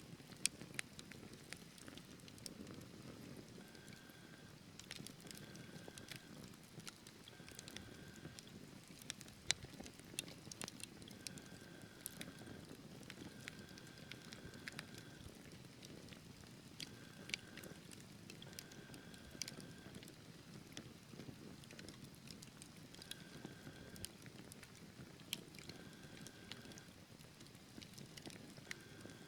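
Wood fire burning in a fireplace: scattered sharp crackles and pops of the logs over a soft low rumble of the flames, with faint short whistling notes coming and going.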